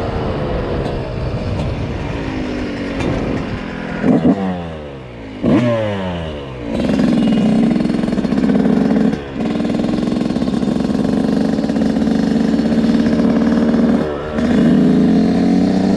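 Dirt bike engine revving up and down several times, then held at steady high revs, dropping off briefly twice.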